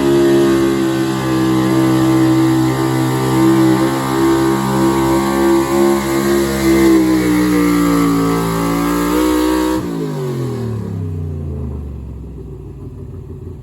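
High-horsepower 4x4 pulling truck engine at full throttle under load, its pitch held steady, then slowly sagging as the sled bears down. About ten seconds in the throttle is cut and the revs fall away quickly: the end of the pull.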